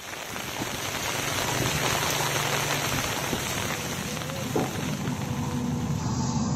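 Heavy rain falling steadily, a dense even hiss, with a faint low hum underneath.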